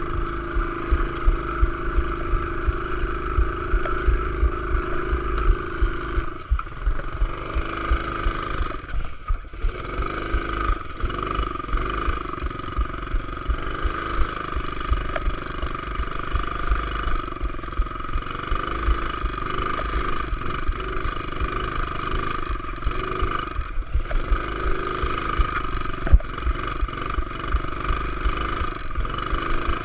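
Pit bike engine running, its pitch rising and falling as the throttle is opened and eased off.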